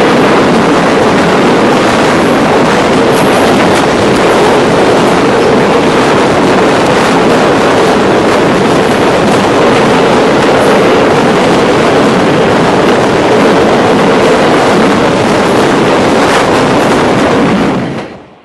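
Freight train of double-deck car-carrier wagons rolling past at close range: a loud, steady rolling noise of steel wheels on rails, with a few sharp clicks. It fades out quickly near the end.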